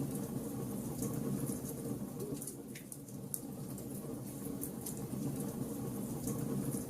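Logs burning in a fireplace: scattered sharp crackles and pops over a steady low rumble.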